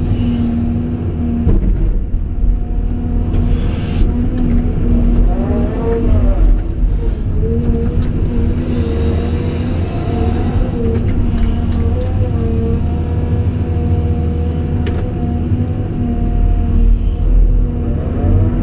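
Cat 349E hydraulic excavator running: a steady diesel rumble under a steady whine that wavers in pitch briefly around a third of the way in and again about halfway, with a few light clicks.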